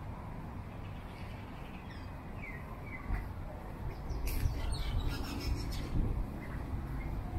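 Small birds chirping a few short high notes, over a low rumble that grows louder about three seconds in.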